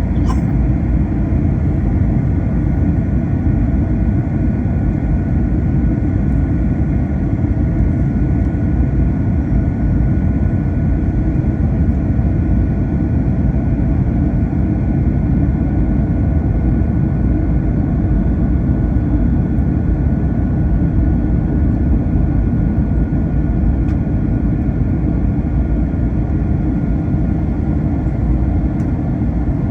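Steady cabin noise inside an Airbus A321 airliner: an even low rumble of engines and airflow with a faint steady high whine above it.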